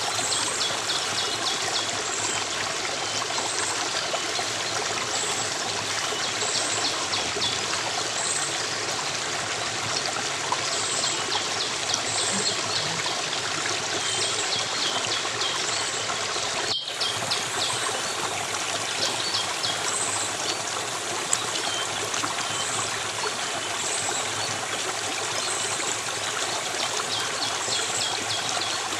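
Steady flowing stream water, with high-pitched chirps repeating every second or two over it. The sound breaks off for an instant about 17 seconds in.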